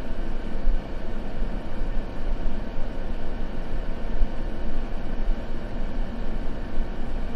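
Continuous sleep noise: a steady, even hiss weighted toward the low end, more a deep rush than a bright hiss, with no crackles or other events in it.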